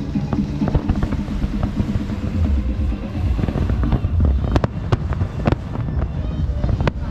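Fireworks bursting over show music: the music is steady at first, then several sharp aerial-shell bangs come from about halfway through, with a deep rumble under them.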